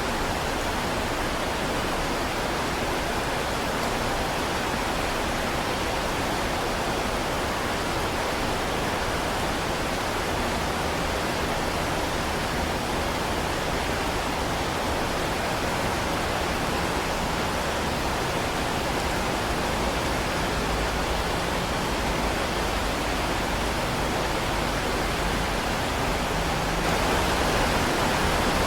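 Heavy rain falling steadily as a dense, even hiss with no distinct drops or thunder, growing a little louder near the end.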